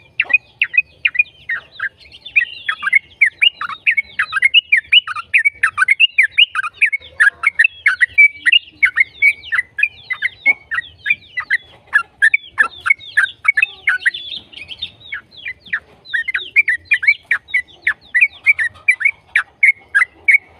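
Yellow-vented bulbul (trucukan) singing a long, fast run of quick, downward-sweeping whistled notes, several a second, broken by a short pause about fifteen seconds in. This is the 'ropel' song used to lure other trucukan into answering.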